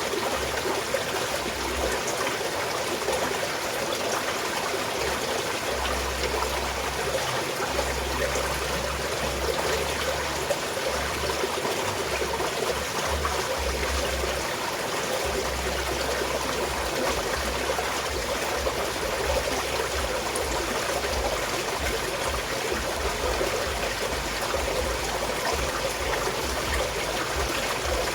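Small mountain stream flowing and trickling steadily.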